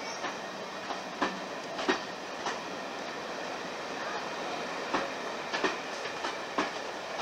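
Passenger coaches rolling past, their wheels clicking sharply over rail joints at uneven intervals, some clicks in quick pairs, over a steady running rumble.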